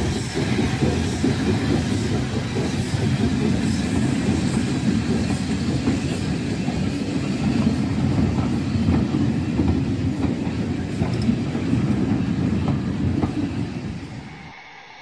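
Heritage railway passenger coaches rolling past close by behind a steam tank engine: a steady heavy rumble with wheels clicking over the rail joints. The sound falls away sharply near the end.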